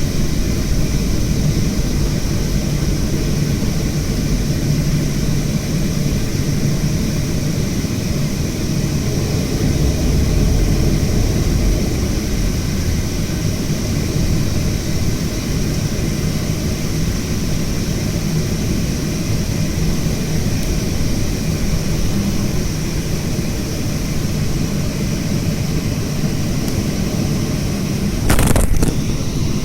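Boeing 737-500 jet engines (CFM56) running with a steady roar and a constant high whine. About a second before the end there is a short, sharp noise.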